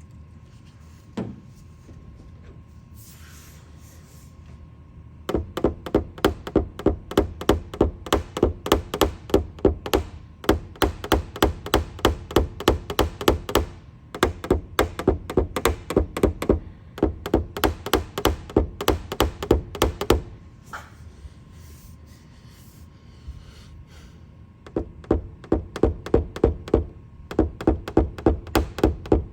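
Rapid, even taps of a hammer on a knockdown tool against the car's sheet-metal roof panel, in three long runs of about four taps a second, with a single knock about a second in. This is the tap-down work of paintless dent repair, levelling high spots left by glue pulling a hail dent.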